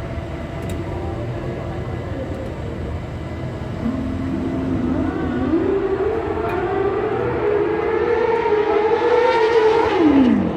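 Drag-race car engine pulling hard, its pitch climbing in steps for about six seconds and holding high, then falling sharply just before the end.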